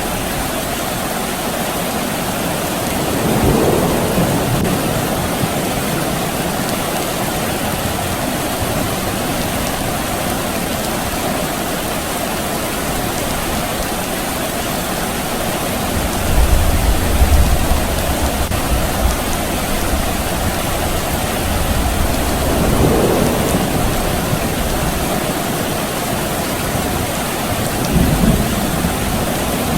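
Steady rain falling, with distant thunder rumbling low for several seconds a little past the middle, and a few shorter swells of rumble.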